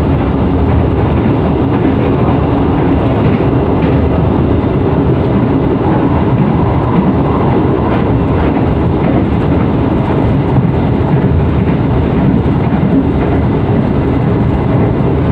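Steady running noise of a moving passenger train heard inside a KAI economy coach: the rumble of wheels on rails and the coach in motion.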